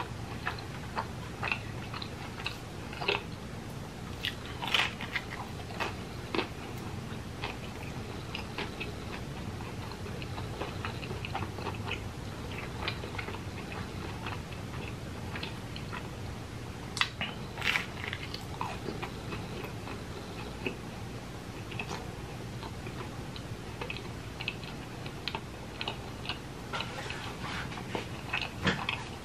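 A man chewing and biting into a slice of pizza: wet, irregular mouth clicks and crunches, a little louder in bursts about a third of the way in, midway and near the end.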